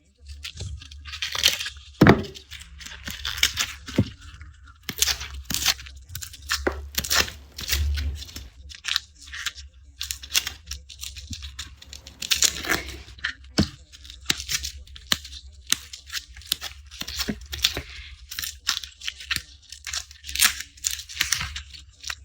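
Dry, papery garlic skins being peeled and torn from the cloves: crisp crackling and tearing in quick, irregular strokes, over a steady low hum.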